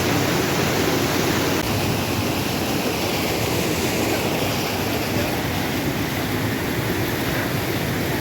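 Steady, loud rush of water from the Meenvellam falls and its stream.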